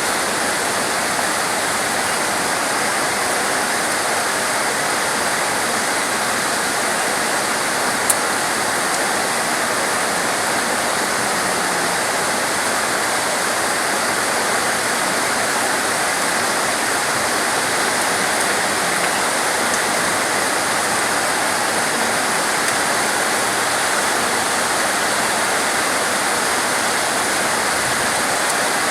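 Steady, unbroken hiss of heavy rain, even and constant throughout, with a single brief click about eight seconds in.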